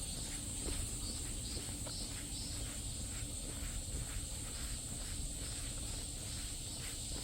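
Footsteps of a person walking along a park path at a steady pace, about two steps a second, over a steady high-pitched drone of insects.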